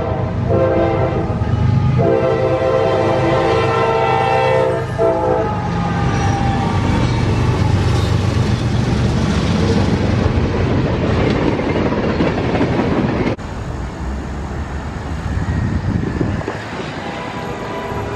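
Train horn sounding several notes at once: a short blast, then a long one of about three and a half seconds. Then the loud rumble and wheel clatter of the train running past, which cuts off abruptly about 13 seconds in to a quieter, steady rumble.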